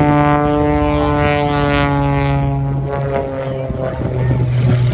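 A propeller-driven aircraft flying past with a steady engine drone, its pitch dropping slightly as it goes by.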